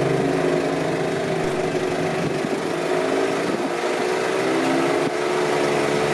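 Diesel engine of a harvest machine running steadily, its pitch sagging slightly and recovering about four and a half seconds in.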